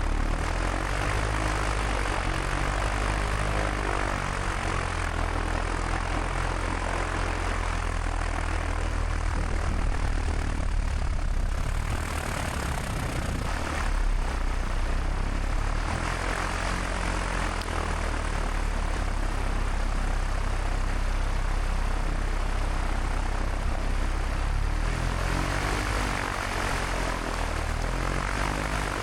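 Light airplane's piston engine and propeller running at low taxi power, heard from inside the cabin: a steady low drone over a constant hiss, with the engine note shifting slightly a few times.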